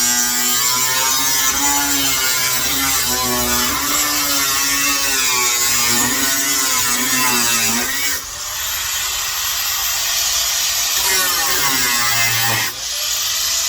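A power tool running, its whining pitch wavering up and down as it is loaded. The sound changes abruptly about eight seconds in and again near the end.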